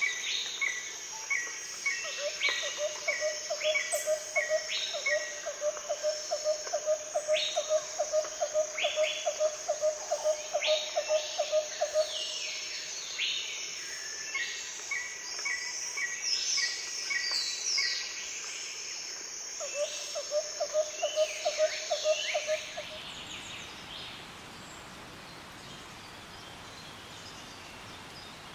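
Several birds calling over a steady high insect buzz: repeated short falling calls, with a fast, low pulsing series of notes twice. About two-thirds through, the sound changes abruptly to a quieter, even background hiss.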